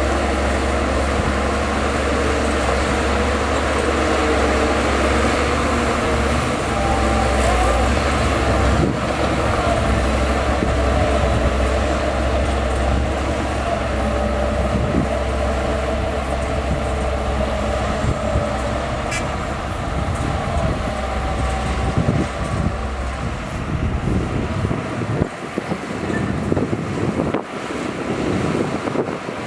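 Heavy diesel earthmoving machinery running, a loud, steady low engine rumble. Near the end the deep rumble drops away and the sound turns more uneven.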